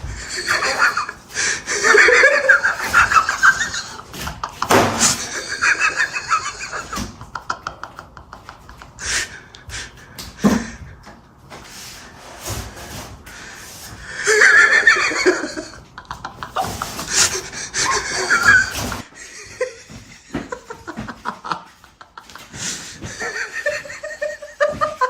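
People laughing and snickering in repeated bursts, loudest in a few spells a second or more long.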